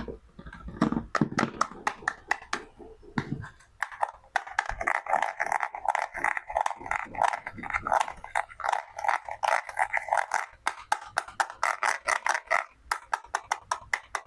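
Toy fruit-and-vegetable cutting set being handled: a string of sharp taps and clicks, thickening from about four seconds in into a dense crackle of rapid clicks that stops shortly before the end.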